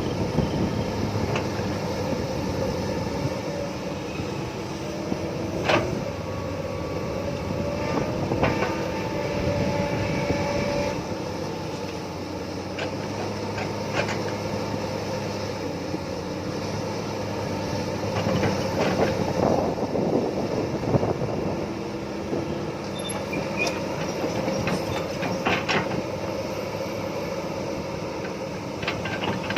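Diesel excavator engine running steadily under hydraulic load, with several sharp metallic knocks.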